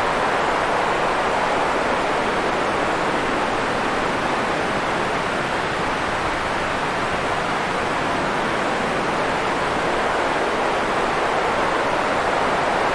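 Steady white noise: an even, unchanging hiss, fuller in the middle than in the highs and lows.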